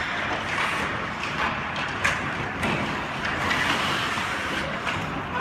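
Steady rink-side game noise, a murmur of crowd and play, broken by sharp knocks about two seconds in and again shortly after.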